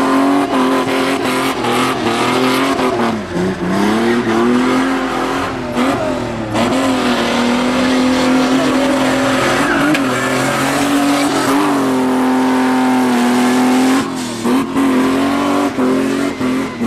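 A Nissan 1400 pickup's engine held at high revs as the car spins, its pitch dipping briefly a few times and climbing back, over the hiss and squeal of the rear tyres spinning against the ground.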